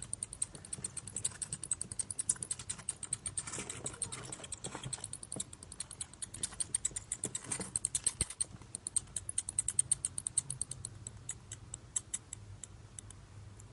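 Bats chirping: a rapid, irregular run of short, high-pitched chirps and clicks, several a second.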